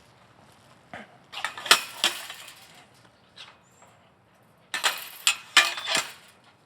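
Two short clusters of knocks and clinks, about a second in and again near the end, as a horse steps and its tack rattles.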